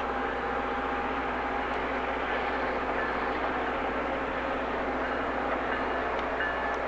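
A train rolling past on the track, a steady rush and rumble with faint high steady tones over it.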